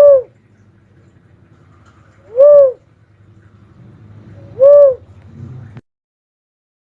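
Cuckoo-dove calling: three short, single notes about two and a half seconds apart, each rising and then falling in pitch. The sound cuts off suddenly about six seconds in.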